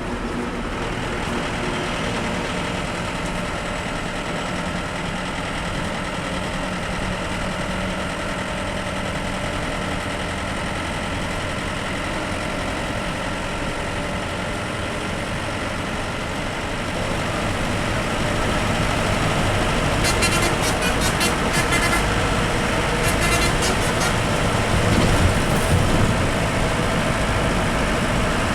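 Bus engine and road noise while driving, getting louder about two-thirds of the way through as the bus picks up speed. Two short spells of rapid clicking come near the end.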